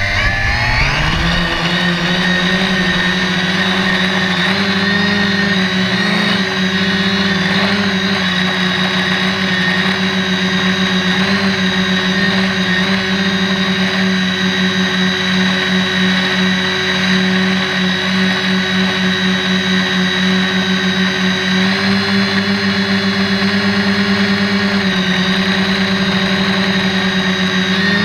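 Electric motors and propellers of an SK450 quadcopter spinning up with a quick rising whine, then running at a steady hover pitch with a slight pulsing beat between the rotors.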